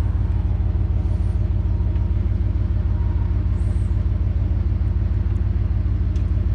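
Truck engine idling close by: a steady, low rhythmic rumble.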